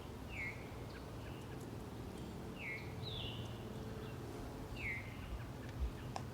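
A small bird chirping faintly: short calls that each drop in pitch, four of them about two seconds apart.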